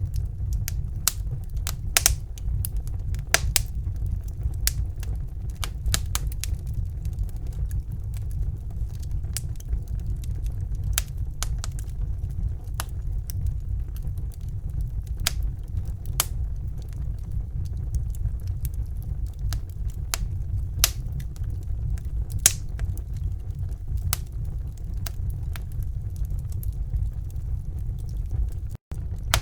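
Wood fire burning in a fireplace: irregular sharp crackles and pops over a steady low rumble of the flames. The sound drops out for an instant near the end.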